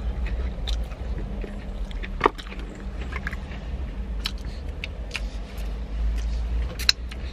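Mouth-closed chewing of battered takeaway food with scattered small clicks, over a steady low vehicle rumble. Two sharper clicks stand out, about two seconds in and near the end.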